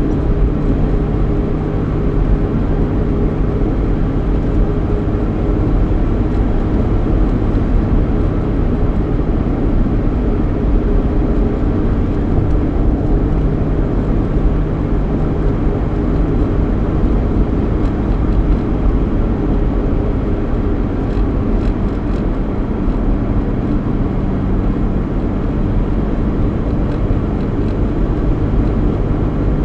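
Cabin noise inside a 3.8-litre V6 Ford Mustang on the move: a steady engine hum under road and tyre rumble.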